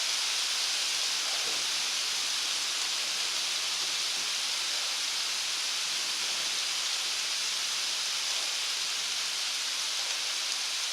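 Heavy rain falling steadily, an even hiss with no thunder heard, cutting off suddenly at the end.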